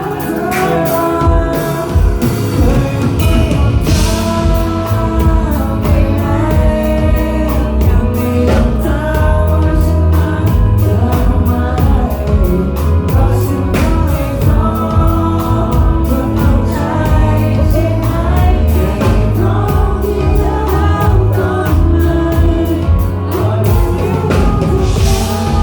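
Live pop-rock band playing a song with sung vocals over a steady drum beat and bass.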